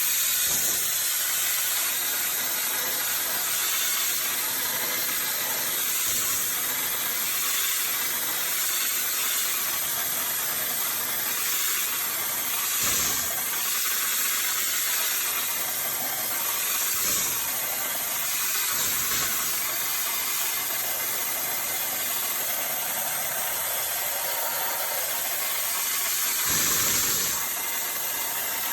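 Steady hiss of a high-pressure cleaning spray, swelling briefly a few times.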